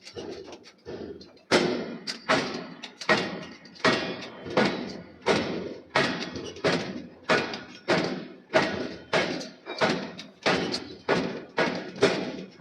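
Hammer blows forging steel on an anvil, struck in a steady rhythm of about one and a half a second. Each blow is a heavy thud with a short ring. Lighter strikes come first, and harder blows begin about a second and a half in.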